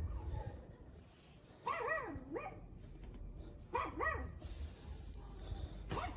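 A dog whining: two wavering cries that swoop up and down in pitch, about two seconds apart, with a sharp knock near the end.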